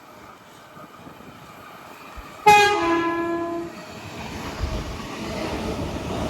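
An electric suburban passenger train sounds its horn once, a loud blast of about a second that starts suddenly and dips slightly in pitch at the start. The rumble of the approaching train then grows steadily louder.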